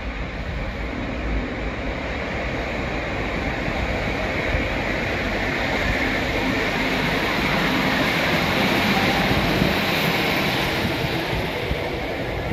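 A two-car Northern Class 150 diesel multiple unit passing along a far track: diesel engine and wheels on the rails rumbling, building to a peak about nine seconds in and easing off near the end.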